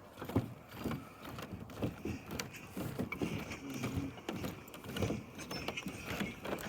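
Footsteps on a wooden footbridge, a soft step about every half second.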